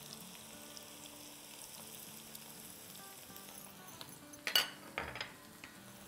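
Chopped onion, whole red chillies and spices sizzling gently in hot oil in a wok, with two short clinks about four and a half and five seconds in as crushed green chillies, ginger and garlic go in.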